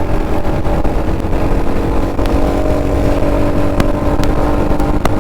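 Kawasaki Z900's inline-four engine running at a steady highway cruise, its note held nearly level, with wind rushing over the helmet microphone.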